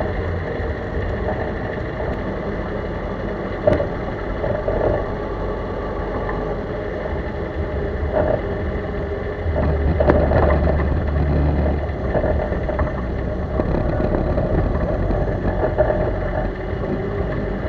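Chevrolet Corsa being driven, with steady engine and road noise and a few short sharp sounds, about 4, 8 and 10 seconds in, from the front suspension. That suspension noise is the one known as 'morceguinho', which points to worn suspension parts such as the strut, control arm or their bushings.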